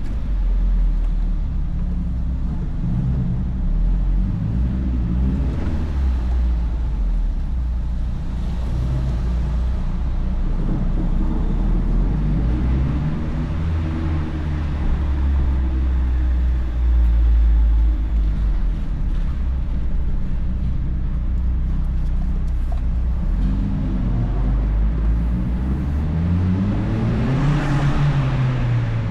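2004 Mazdaspeed Miata's turbocharged 1.8-litre four-cylinder running through a Flyin' Miata cat-back exhaust while driving, its pitch rising and falling with the throttle. Near the end it revs up sharply, then drops back.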